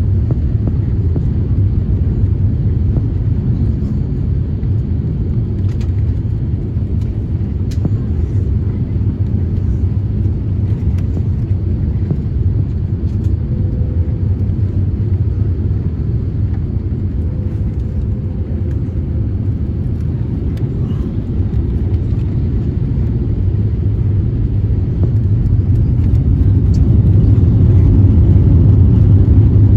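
Deep, steady rumble inside the cabin of an Airbus A350-1000 from its engines and airflow during the landing, growing louder over the last few seconds.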